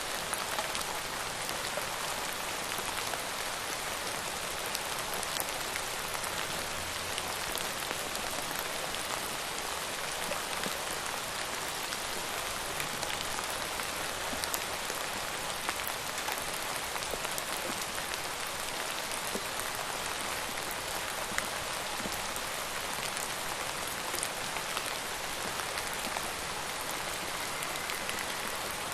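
Steady rain falling, an even hiss with the ticks of single drops landing on a surface.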